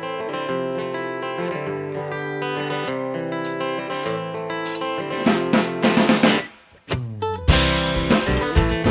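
Live bluegrass band opening a song. An acoustic guitar plays a chordal intro, and more plucked strings with sharper hits join about five seconds in. After a downward slide in pitch and a brief break, the full band comes in with drums and upright bass near the end.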